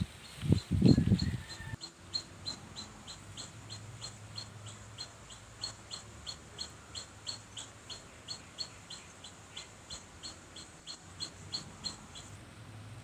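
A bird repeating one short, high chirp about three times a second, keeping an even pace until it stops just before the end. A few louder low thumps come in the first two seconds.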